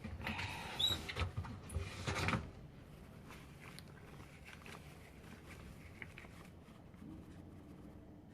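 Rustling and clicking handling sounds for about two and a half seconds as soaked tissue is pulled off a washing machine's rubber door seal, then only faint small ticks.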